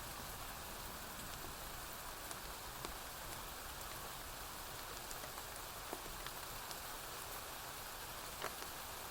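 Steady rainfall with a few scattered sharp ticks.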